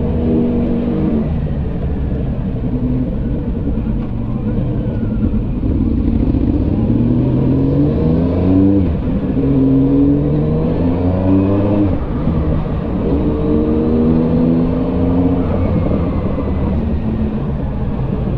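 Motorcycle engine under way, its pitch climbing as it revs and dropping back at each gear change, several times over, over a steady low rumble.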